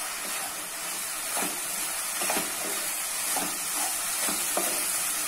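Sugary kalakand batter sizzling steadily in a nonstick pan as it is cooked down, with a spatula scraping and stirring through it about six times.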